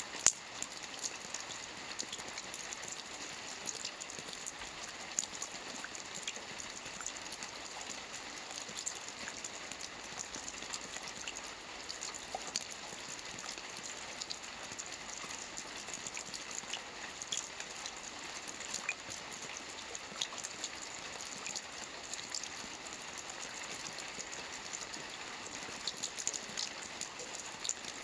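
Soft rain falling steadily on a roof, an even patter with many small individual drops ticking through it.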